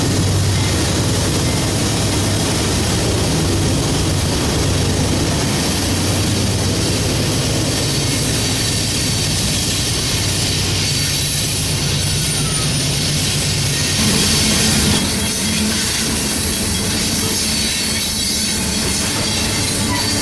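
A train rolling past close by: a steady, loud rush of wheels on rail, with a low hum underneath in the first half that then fades.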